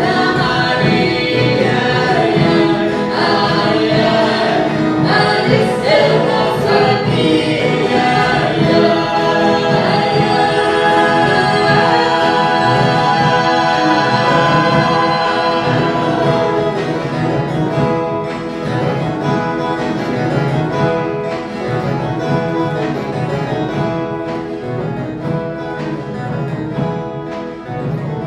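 Viola caipira orchestra playing a Christmas song with a choir singing. The music grows quieter past the middle.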